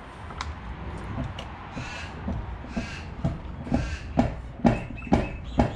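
A hand-lever grease gun being pumped, forcing grease through a grease nipple into a loader attachment pin. The lever strokes give repeated squeaky scrapes, then sharp clicks about twice a second in the second half.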